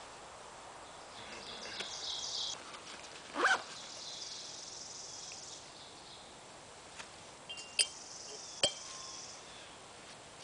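Insects trilling in a high, wavering band, with one short, louder noise about three and a half seconds in and two sharp clicks near the end.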